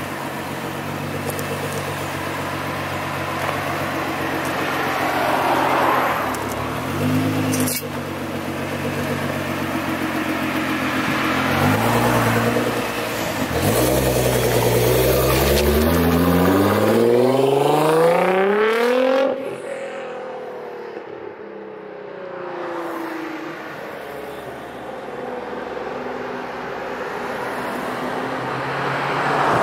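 Tuned Nissan GT-R with a full titanium exhaust running low and blipping briefly twice, then accelerating hard in one long rising pull for about six seconds. The pull cuts off sharply, and the engine note falls away, quieter, before building again near the end.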